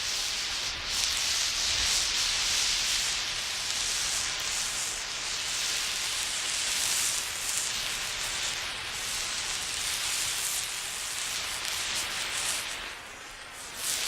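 Emergency flare burning with a steady, wavering hiss that dips briefly near the end and then comes back.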